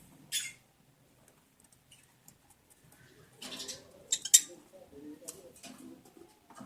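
Lovebirds stirring in their cage or nest box: short scratchy rustles of claws and feathers, a brief one just after the start and a cluster about three to four seconds in. Soft low chattering runs through the second half.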